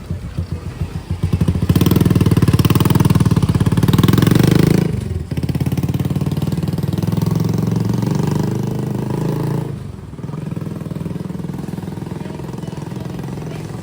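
A motorcycle engine running close by. It is loudest between about two and five seconds in, carries on more softly, and fades over the last few seconds.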